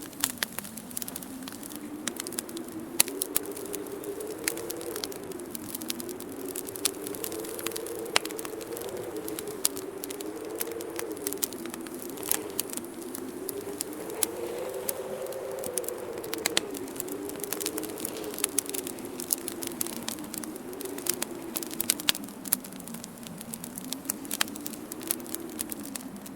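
Wood fire crackling with frequent sharp pops, some louder than the rest. Under it, a wind howl slowly rises and falls in pitch.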